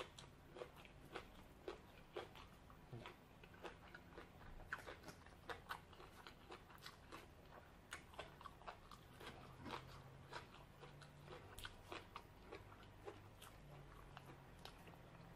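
Quiet, close-up chewing of crunchy shredded green papaya salad: a steady run of small wet crunches and mouth clicks, about two or three a second.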